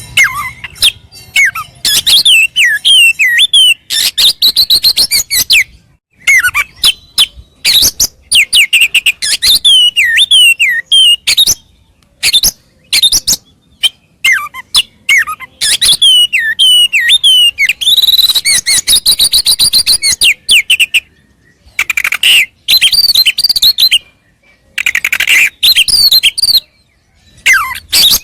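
Oriental magpie-robin (kacer) singing a fast, varied song of sweeping whistled notes that rise and fall, mixed with runs of rapid clicks, in phrases broken by short pauses. It is the full, combative song of a bird in fighting mood, pouring out its repertoire of mimicked phrases.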